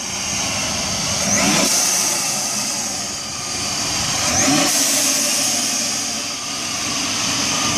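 Supercharged Pentastar V6 of a Jeep Wrangler held at high revs in a four-wheel burnout, with a steady high whine over the engine noise. It revs up twice, about a second and a half in and again about four and a half seconds in.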